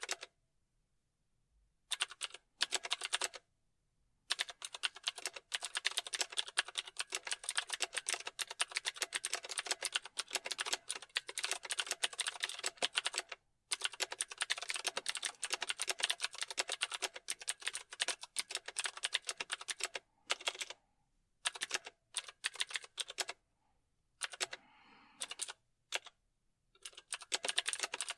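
Typing on a computer keyboard: rapid keystroke clicks in runs separated by short pauses. It starts after a couple of seconds of quiet, then a long unbroken run of typing follows, and shorter bursts with gaps come near the end.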